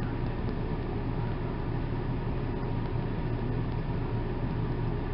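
A steady low rumble with a hiss over it, unchanging throughout.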